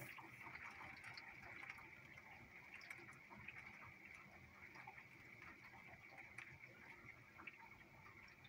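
Faint rain falling in a heavy shower, a low steady hiss with many small scattered ticks of drops.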